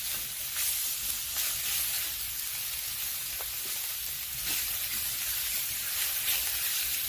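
Pork belly sizzling in oil on a cast-iron cauldron lid heated by a wood fire: a steady hiss with scattered pops and crackles.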